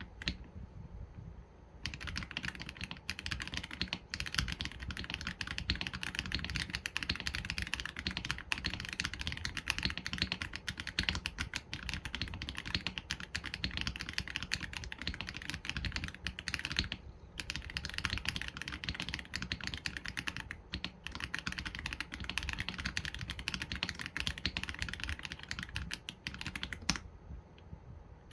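Steady fast typing on an AULA F87 Pro mechanical keyboard with Leobog Graywood V3 linear switches and PBT keycaps: a dense run of keystrokes that starts about two seconds in, broken by a few brief pauses.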